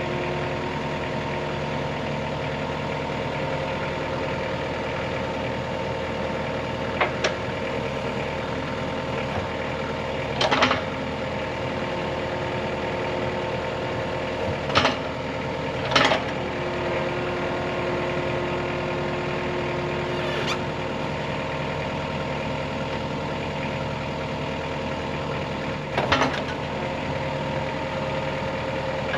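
An engine idling steadily, with a few short, sharp knocks or clanks over it.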